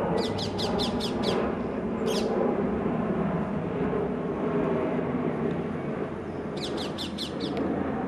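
Bird calling in two quick series of five or six sharp, high notes, about five a second, one right at the start and one near the end, with a single call in between, over steady background noise.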